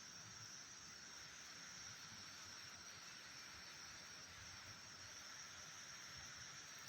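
Near silence: a faint, steady hiss of background noise with no distinct sound events.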